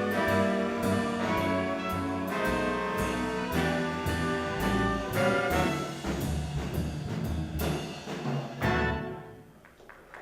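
Small swing band with horns, upright bass and drums playing the instrumental close of a ballad. The band stops about nine seconds in and the last notes fade.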